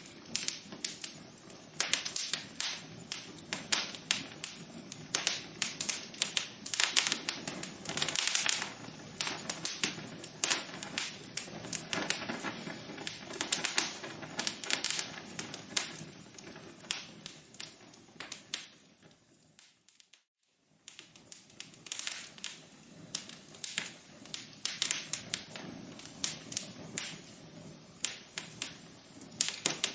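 Wood fire crackling in a fireplace: dense, irregular pops and snaps over a soft hiss. About nineteen seconds in it fades almost to silence for a second, then the crackling starts again.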